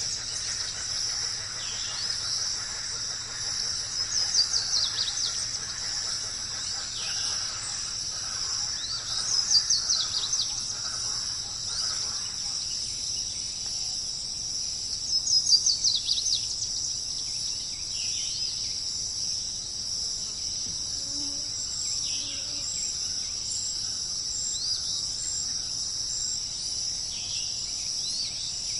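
Wild songbird and insect chorus. A steady high-pitched insect trill runs throughout. Over it, a bird repeats a short phrase of rapid, steeply falling notes every five or six seconds, and fainter single downslurred calls come in between, thinning out in the second half.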